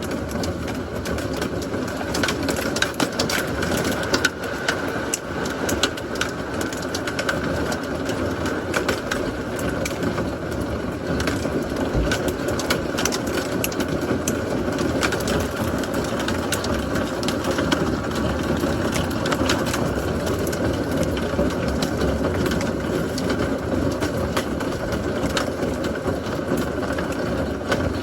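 Heavy thunderstorm rain falling steadily, with many sharp individual drop hits.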